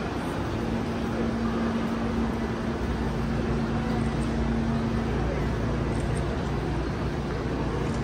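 Electric commuter train running with a steady rumble and a held hum; the hum drops to a lower pitch about five seconds in.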